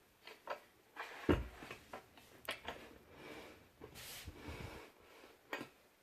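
Scattered handling knocks and clicks with some rustling. The thump about a second in is the loudest.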